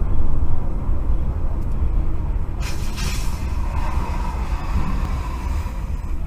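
Steady low road and engine rumble of a moving vehicle as picked up by a dashcam, with a brief hiss about two and a half seconds in.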